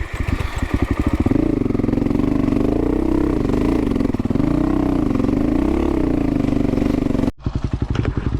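Dual-sport motorcycle engine at idle, then revving up and down repeatedly as the throttle is worked for several seconds. Near the end the sound cuts out briefly and returns to a steady idle.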